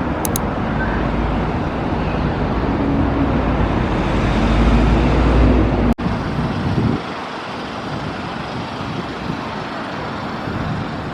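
Street traffic noise: a vehicle engine rumbling close by with a steady low hum, which gives way about seven seconds in to lighter passing-traffic noise.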